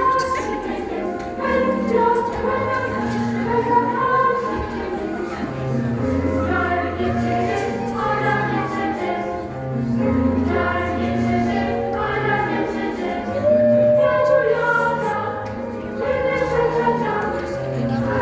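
Music with a choir singing over held bass notes that change about every second.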